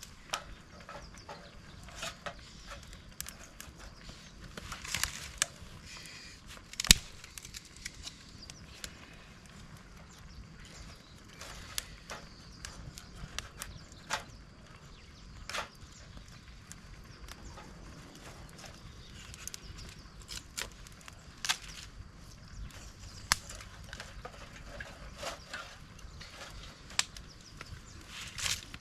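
Irregular sharp clicks and knocks, one every second or two, over a low steady background; one louder knock about seven seconds in.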